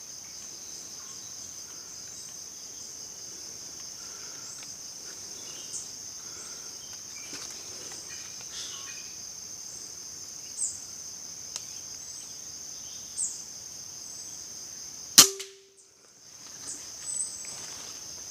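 Steady high-pitched drone of forest insects with a few short bird chirps; about 15 seconds in, a single sharp crack from an air rifle shot at a green pigeon.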